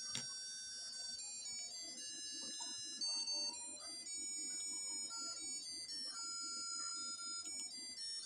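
Tinny electronic melody of thin, steady beep-like notes, in the manner of a ringtone or ice-cream-van chime, with a sharp click at the very start.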